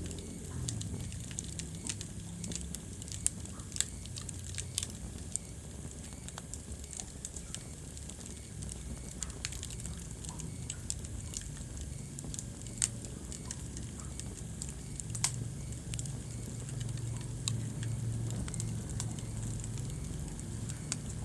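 Wood fire crackling in a fireplace: scattered sharp pops and snaps at irregular intervals over a low, steady rumble of the burning fire.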